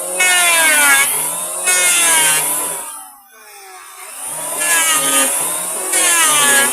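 Electric hand planer cutting wood in repeated passes, about one a second. Its motor pitch sags and recovers with each pass, under a high hiss. About three seconds in the motor falls away, and a second later it runs back up.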